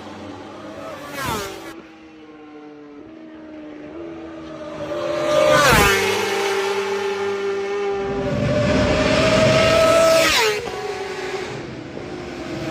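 Superbike race motorcycles passing at speed, their engine notes climbing in steps through upshifts, then dropping sharply in pitch as each bike goes by, three times.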